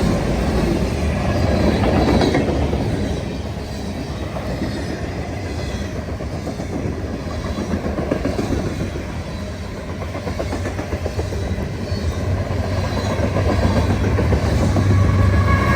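Freight train cars rolling past with steady rumble and wheel clatter on the rails. A faint wheel squeal comes in near the end.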